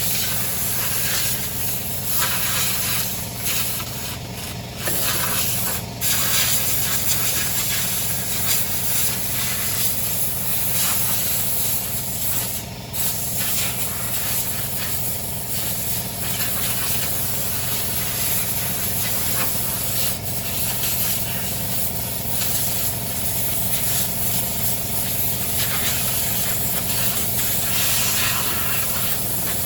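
A small motor or engine running steadily under a constant loud hiss.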